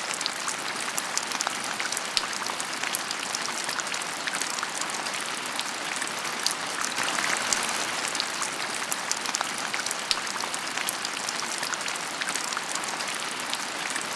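Steady rain falling, heard as an even hiss dotted with many small drop ticks.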